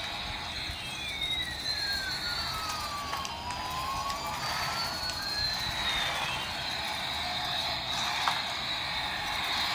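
A siren wailing in slow sweeps: the pitch falls for about three seconds, then rises again, and a new fall begins near the end.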